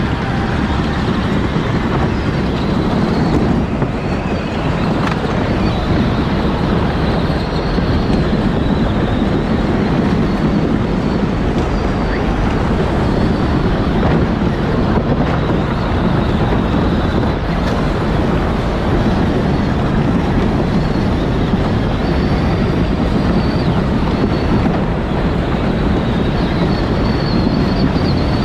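Onboard sound of a Power Wheels ride-on toy car driving: a steady rumble of its electric drive and wheels, with a faint high whine that wavers in pitch.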